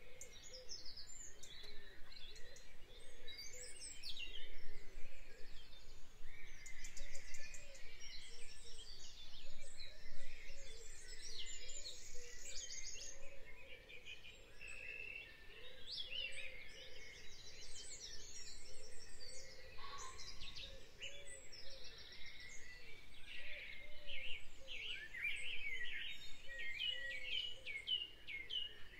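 Birds chirping and twittering, many short calls overlapping, with a lower call repeating steadily underneath.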